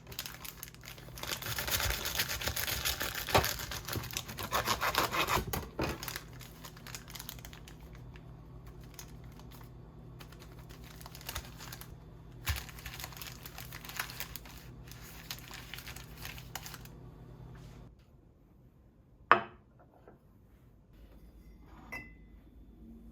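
Packaging crinkling and tearing, loudest in the first six seconds, then softer rustling and handling. A steady low hum stops at about eighteen seconds, followed by a single sharp knock and, near the end, a light clink.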